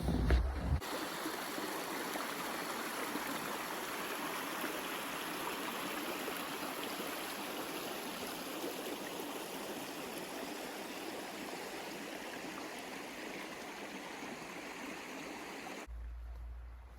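Steady rushing of flowing water, even and without crackles, starting abruptly about a second in and cutting off just before the end.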